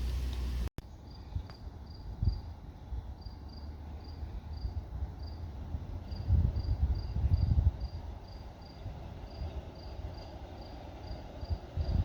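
An insect chirping, most likely a cricket: a high, thin chirp repeated about four times a second in short runs. Under it runs a low rumble that swells about six to seven seconds in. The sound starts after an abrupt cut about a second in.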